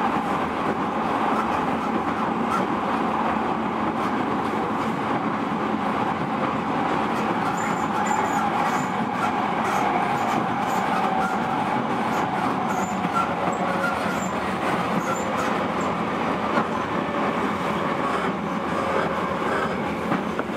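JR E231 series electric commuter train running steadily: a continuous rumble and rolling noise of the wheels on the rails.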